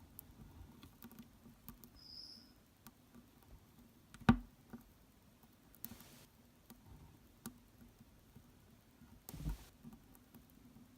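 Faint scattered crunching and clicking of a giant rainforest mantis chewing through a cricket's head. A single sharp knock about four seconds in is the loudest sound, and there is a brief rustle near the end.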